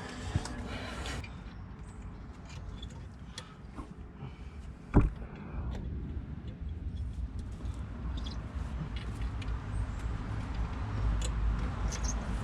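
Hand tools and parts being handled during a brake job: scattered light clicks and one sharp knock about five seconds in, over a low rumble.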